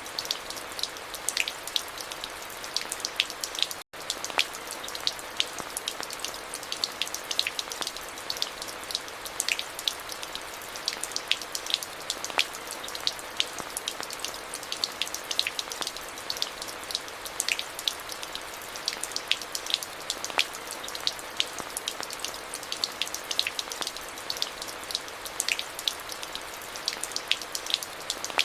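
Steady rain: a constant hiss with many individual drops landing close by as sharp ticks. The sound cuts out for an instant about four seconds in.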